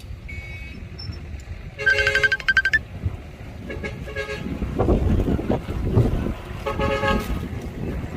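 Vehicle horn sounding in rapid stuttering pulses of a high tone, once about two seconds in and again near the end, over the low rumble of a heavy engine that swells in the middle.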